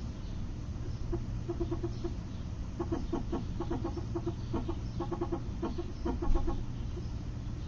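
Rapid pulsing chatter from a 2008 Toyota Prius's brake system when the brake pedal is held at a stop. It comes in several short bursts of about eight pulses a second over a low steady hum, with a single louder knock near the end.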